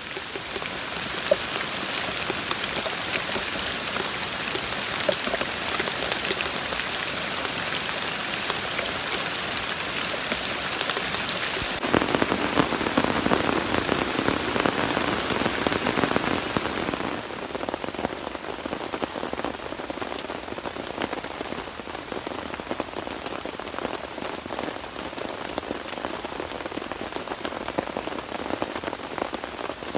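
Heavy rain pouring steadily on a tent, its tarp and the surrounding forest leaves. It swells louder and fuller for a few seconds in the middle, then thins to a lighter rain with separate drops heard against the tent fabric.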